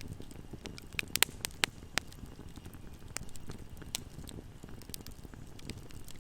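Wood fire burning in a fireplace, crackling over a low rumble, with a quick run of loud sharp pops about a second into the sound and scattered smaller snaps after.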